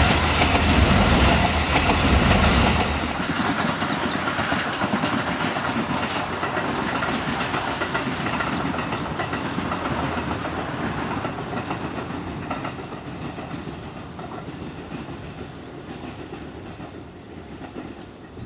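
Steam-hauled train passing on the rails, its wheels clattering over the rail joints: loud with a heavy low rumble for the first few seconds, then fading steadily as the train moves away.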